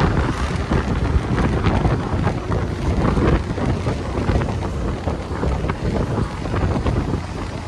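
Wind buffeting the microphone over the steady low rumble of a vehicle moving on the road, with scattered small crackles.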